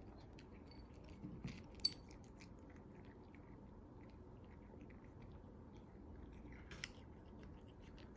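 Brown tabby cat chewing and crunching cat food eaten straight from its food case: faint, irregular small clicks, with a sharper click about two seconds in and another near seven seconds.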